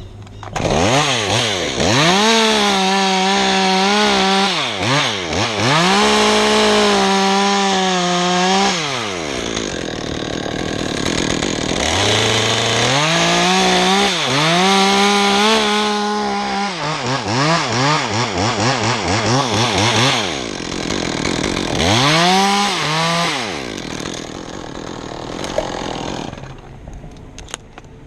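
Chainsaw cutting through a pine spar at full throttle, its engine pitch sagging and wavering under the load of the cut. It runs in three long bursts, easing off between them.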